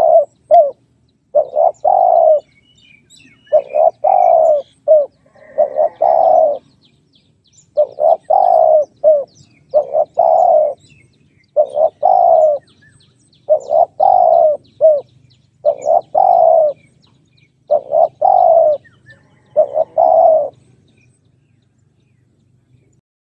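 Spotted dove cooing: short phrases of a few low coos, repeated about every two seconds, stopping a few seconds before the end.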